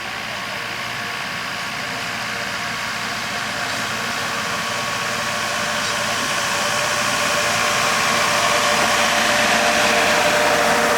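Diesel engine of the DL51 narrow-gauge diesel locomotive running steadily, growing gradually louder as the train approaches.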